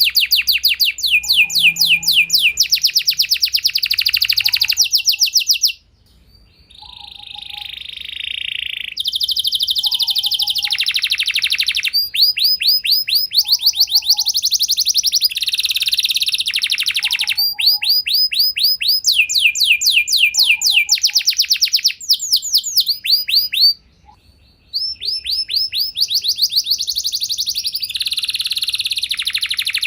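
Domestic canary singing a long song of rapid trills, each phrase a fast run of repeated downward-sliding high notes, changing speed from phrase to phrase, with brief pauses about six seconds in and near the end.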